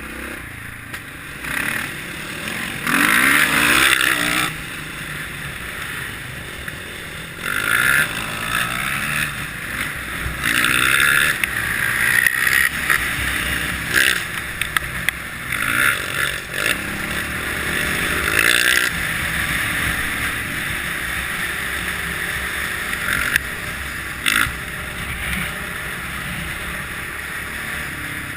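Kawasaki KLX650R's single-cylinder four-stroke engine running under the rider, revving up and down in surges, with the clearest rise in pitch about three seconds in. Repeated bursts of rushing noise come and go with the surges.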